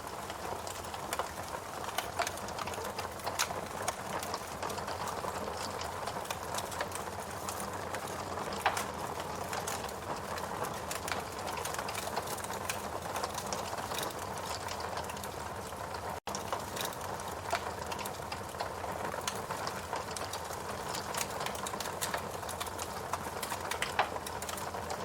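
Wood fire burning in a fireplace: a steady hiss with frequent small crackles and occasional sharper pops from the logs. The sound cuts out for a split second about two-thirds through.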